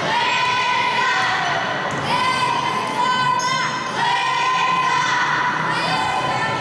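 Repeated held horn blasts, each lasting a second or two, over crowd noise from spectators.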